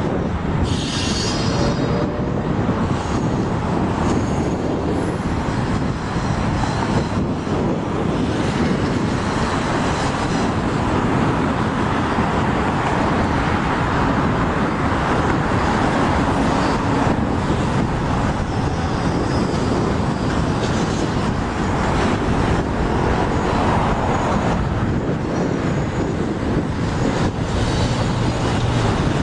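Canadian National freight train rolling past with a steady rumble and clatter of rail cars on the track. There is a brief high wheel squeal about a second in.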